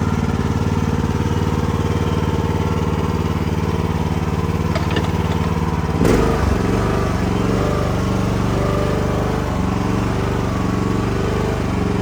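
Easy Quip Tiger mini excavator's engine running steadily while the machine is driven and manoeuvred. A sudden clunk comes about halfway through, after which the engine note changes.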